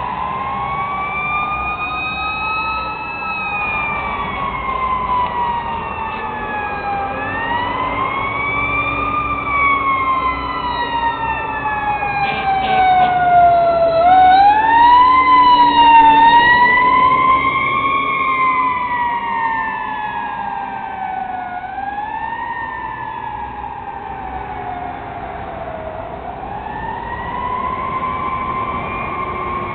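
Fire truck sirens wailing, the pitch rising and then falling slowly in cycles of about four to five seconds, over a low engine rumble. Loudest around the middle as the trucks pass.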